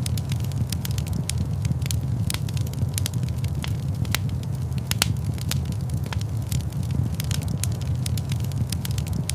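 Wood fire crackling in a large stone fireplace: many irregular sharp pops and snaps, several a second, over a steady low rumble.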